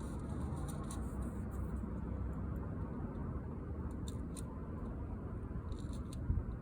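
Scattered light clicks and snips of hand work on window screen mesh, with a thump near the end, over a steady low hum.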